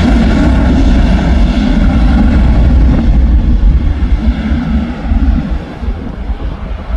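Airplane taking off, its engines giving a loud, steady low rumble that begins to fade and waver about two-thirds of the way through.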